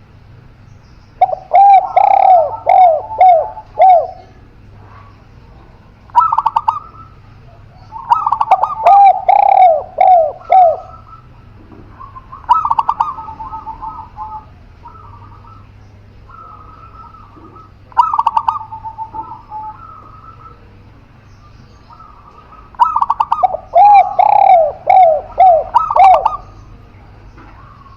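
Spotted dove and zebra dove cooing in about six separate bouts. Each bout is a quick run of short, repeated notes, with pauses in between.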